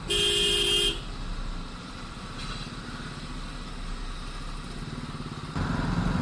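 A vehicle horn sounds for about a second, then a Royal Enfield Classic 350's single-cylinder engine runs steadily under wind and traffic noise, getting louder about five and a half seconds in.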